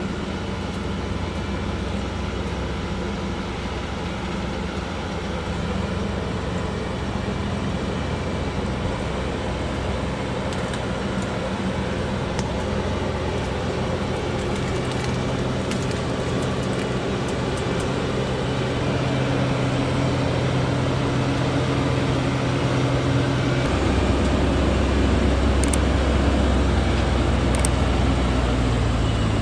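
Timber truck's engine running steadily and slowly growing louder. About 24 seconds in, its low note drops deeper and gets stronger.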